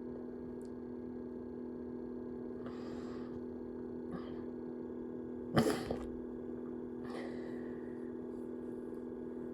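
Steady electrical hum made of several low tones, with soft faint rustles and one short sharp noise about five and a half seconds in.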